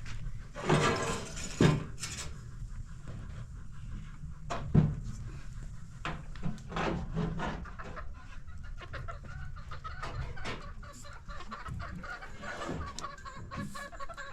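A series of short, irregular animal calls, loudest in the first few seconds and about five seconds in, with smaller ones after.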